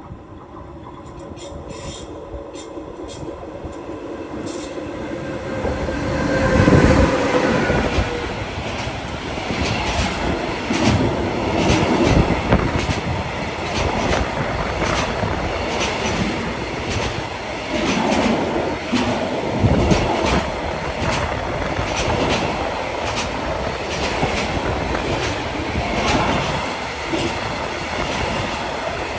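A train approaching and passing close by: the rumble builds over the first six seconds, then stays loud as the cars roll past, with the wheels clicking steadily over the rail joints.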